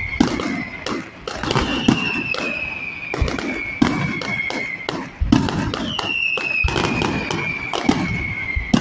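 Fireworks display: a fast, irregular series of bangs with crackling between them, over long whistles that slowly fall in pitch, one starting about two seconds in and another about six seconds in.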